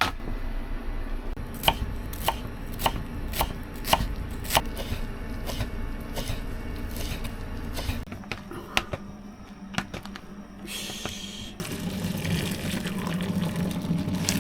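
Knife chopping on a cutting board in slow, even strokes, about two a second, thinning out after about eight seconds. A steady hiss comes in near the end.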